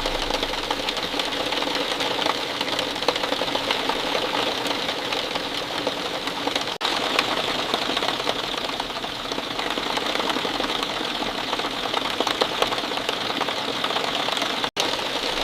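Steady rain, a dense patter of many small drops that cuts out for an instant about seven seconds in and again near the end.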